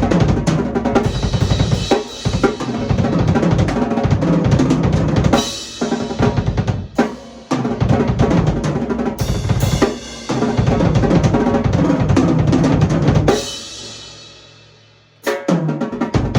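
Canopus Mahogany drum kit played: kick, snare and cymbal strikes in busy grooves and fills. Near the end the playing stops and the kit rings out for about two seconds before strikes start again.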